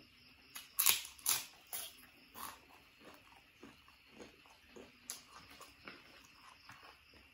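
Close-miked chewing of crunchy food: a run of loud, sharp crunches about a second in, then quieter chewing and small mouth clicks.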